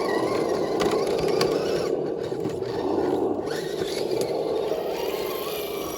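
A small RC rock crawler's electric motor and geared drivetrain whirring steadily, with a few faint clicks.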